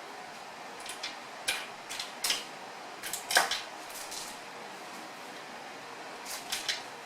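Scattered light clicks and knocks, in small clusters, over a steady low hiss; the loudest knock comes about three and a half seconds in.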